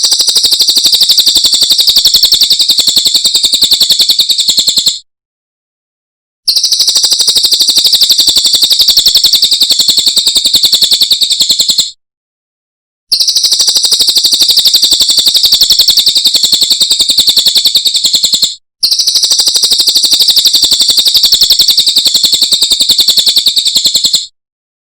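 Cililin songbird singing a rapid, high-pitched trill of quickly repeated notes. It comes in four long phrases of about five seconds each, separated by short pauses; the last two phrases nearly run together.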